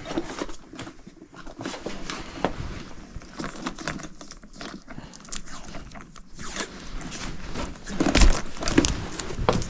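Footsteps and handling noise: irregular scuffs, knocks and rustling, with a louder knock about eight seconds in.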